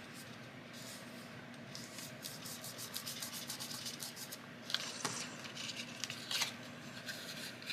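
Paper rustling and crinkling as it is handled and folded by hand: a run of quick small crackles through the first half, then a few louder crinkles.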